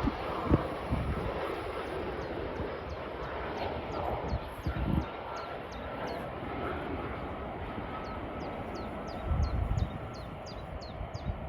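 Jet engine noise of a landing Airbus A320: a steady rushing sound, with wind gusting on the microphone a few times.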